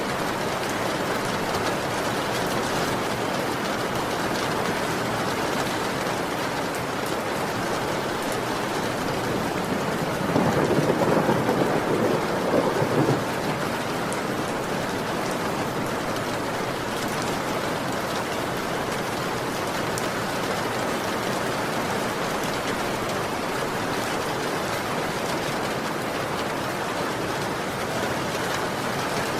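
Heavy rain falling steadily, with a roll of thunder about ten seconds in that lasts about three seconds.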